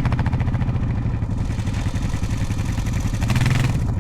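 ATV engine running steadily at low revs, with a short swell in the upper noise about three seconds in.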